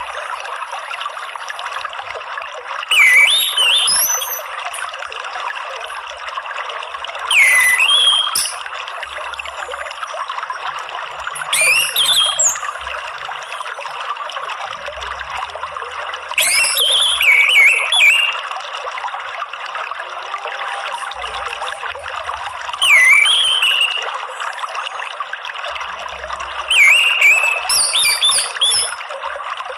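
Steady trickling water with an orange-headed thrush singing over it: six short phrases of gliding whistled notes, one every four to six seconds.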